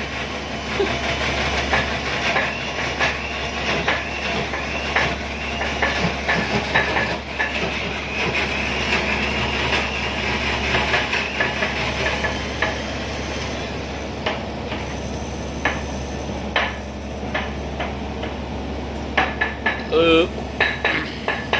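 Stone pestle working in a stone mortar: repeated knocks and scraping strokes, about two a second for the first dozen seconds and more scattered after, as meat is ground fine for meatballs. A steady low hum of the ship's engine runs underneath.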